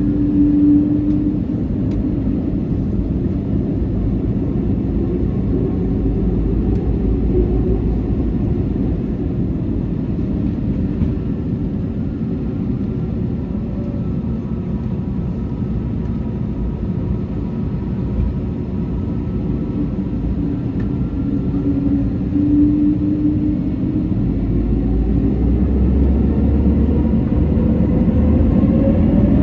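Airbus A321neo's Pratt & Whitney PW1100G geared turbofans heard from inside the cabin, a steady low rumble and hum as the airliner taxis. Near the end the rumble grows and the engine whine starts rising in pitch as the engines spool up.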